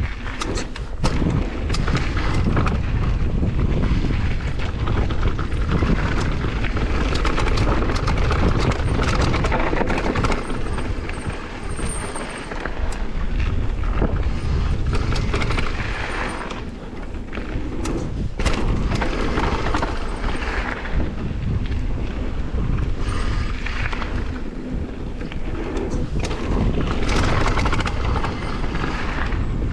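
Wind buffeting the microphone in strong gusts, a loud rumbling rush that swells and drops, with scattered short knocks and pops.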